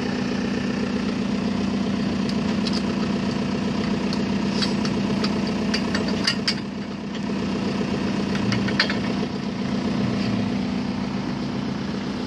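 A machine engine running steadily at an even speed, with scattered sharp clicks and knocks between about 2 and 9 seconds in.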